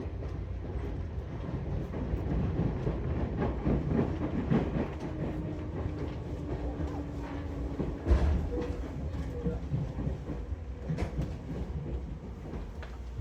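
Electric commuter train running, heard on board: a steady rumble of wheels on rails with repeated clicks over the track. A faint steady tone for a few seconds in the middle, and a sharp thump about eight seconds in.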